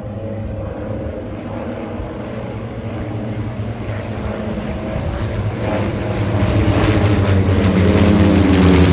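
Historic race car engine running with a steady drone, growing gradually louder as it comes closer.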